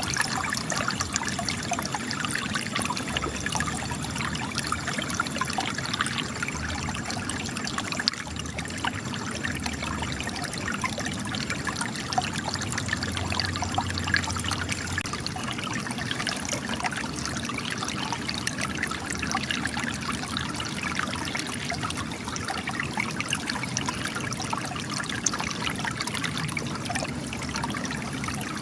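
Spring water trickling and splashing steadily from cracks in rocks, a continuous patter of small drips and splashes.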